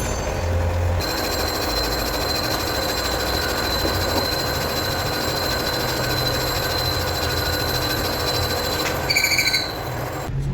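Metal lathe running and cutting steel: a steady mechanical noise with a high whine, and a brief pulsing squeal near the end before it cuts off.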